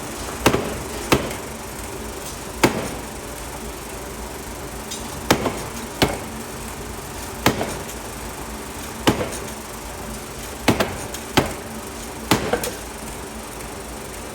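Hammer blows on forged steel: about eleven sharp, irregularly spaced strikes, each with a short ring, some in quick pairs. A steady machine hum runs underneath.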